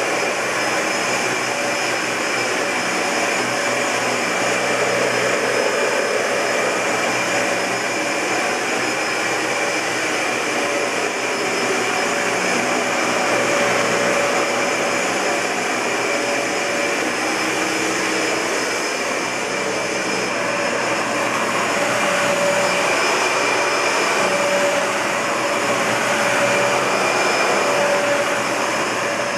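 Dyson Ball Multi-Floor (UP13) bagless upright vacuum cleaner running steadily: a continuous rush of air with a steady whine and a higher tone above it, rising and falling slightly in loudness.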